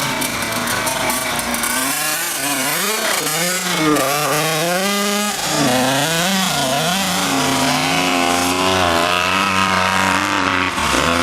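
85cc two-stroke motocross bike engine revving up and down under riding, its pitch rising and falling repeatedly with the throttle, most sharply a few seconds in.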